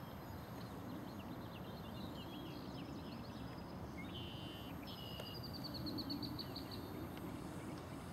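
Songbirds chirping and singing over a low, steady outdoor rumble. About five seconds in, one bird gives a quick run of high notes falling slightly in pitch.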